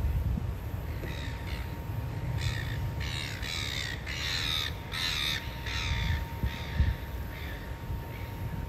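A bird calling in a run of about a dozen repeated notes that grow louder toward the middle and then fade, over a steady low wind rumble on the microphone.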